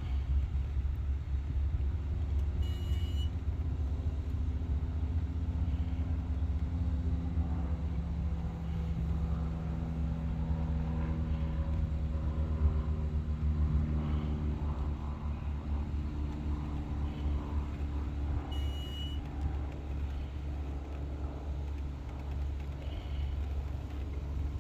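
Steady low rumble with slowly drifting hum tones, like nearby vehicle traffic or an engine running. Two short high beeps sound, the first about three seconds in and the second about sixteen seconds later.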